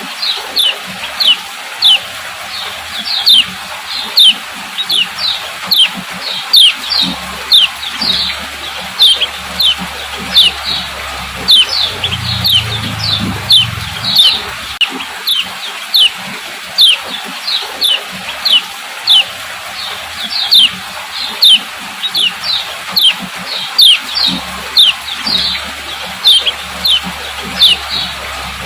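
Female kecial kuning, a white-eye, giving its 'ciak ciak' call: short, high, falling chirps repeated steadily about two to three times a second, with a faint low rumble underneath at times.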